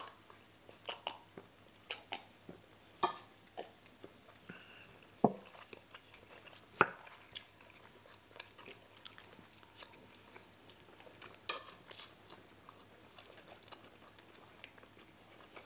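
Close-up eating sounds of two people chewing jollof rice and meatballs, with scattered clicks and knocks of spoons on a plate. The two sharpest knocks come about five and seven seconds in.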